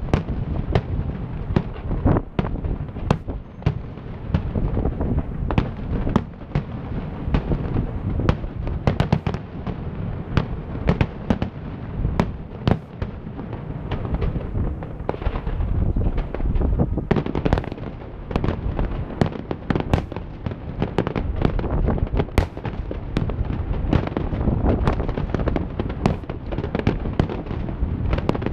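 Fireworks display: aerial shells going off in a dense barrage, several sharp bangs a second over a continuous low rumble.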